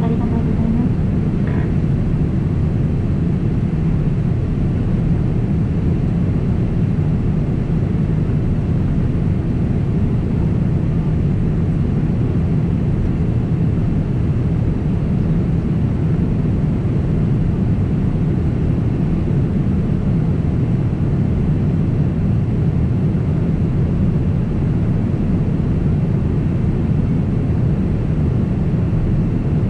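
Steady cabin noise of a Boeing 767 airliner in flight: a constant low roar of jet engines and rushing air, unchanging throughout.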